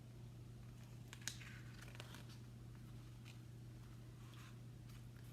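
Near silence: quiet room tone with a steady low hum, and a few faint clicks and rustles about a second in and again around two seconds in.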